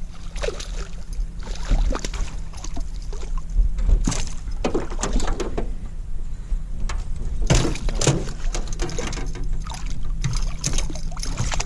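Small fishing boat on the water: a steady low hum under irregular knocks and splashy sounds, with no talking.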